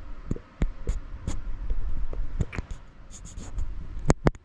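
Handling noise from the recording phone or camera: irregular clicks, taps and knocks over a low rumble, with two sharp, loud clicks near the end.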